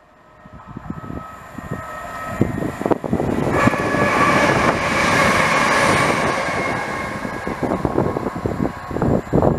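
A Chiltern Railways Class 168 diesel multiple unit passing through at speed. Its engine and wheel noise builds over the first few seconds, peaks about midway with a steady whine over the rumble, then fades as it draws away.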